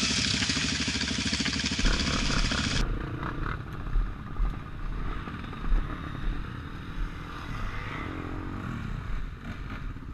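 Off-road motorcycle engine running hard. About three seconds in, the sound changes abruptly to a quieter engine with scattered thumps and clattering.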